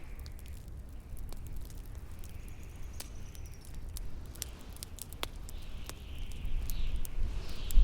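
Bonfire crackling with scattered sharp pops over a steady low rumble of wind, the wind growing louder near the end.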